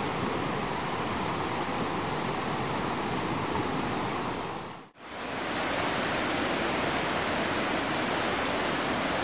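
Fast-flowing floodwater from an overflowing stream rushing steadily. The sound breaks off briefly about halfway through and comes back at the same level.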